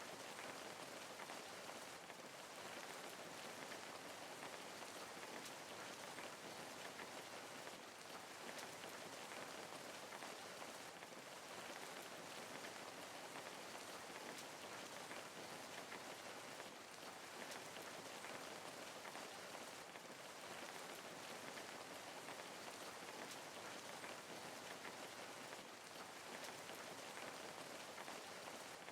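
Steady, even rain falling, a dense patter of fine drops on a surface.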